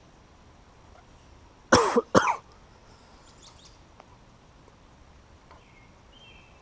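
A man coughing twice in quick succession, about two seconds in. Faint high chirps follow later.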